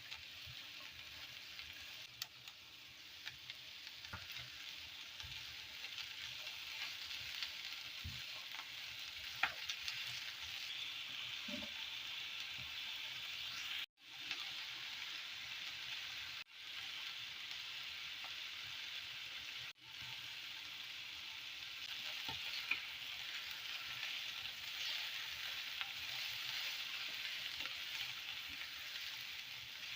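Food frying in hot oil in a pan, a steady sizzle, with a few light clicks of a utensil. The sound cuts out briefly three times around the middle.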